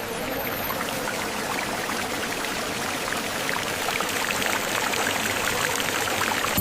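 Water running or pouring steadily, a dense splashing hiss with many small droplet ticks that swells slightly and then cuts off suddenly at the end.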